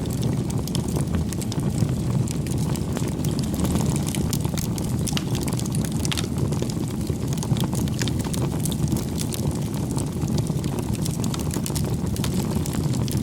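Campfire burning: a steady low rumble of flames with frequent small, irregular crackles of burning wood.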